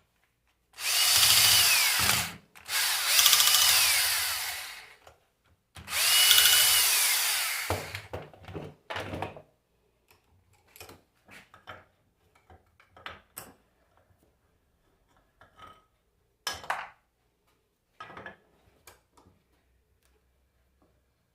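Electric drill/driver running in three bursts of about two seconds each, its motor whine dropping in pitch as each burst ends, as screws are driven out of the alternator's housing. Scattered light clicks and knocks of metal parts being handled follow.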